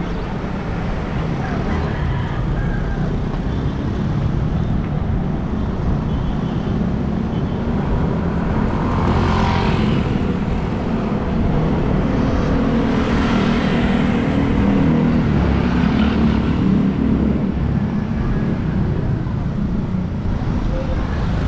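City road traffic: a steady low rumble of vehicles heard from the road, with a couple of vehicles passing close, about halfway through and again a few seconds later.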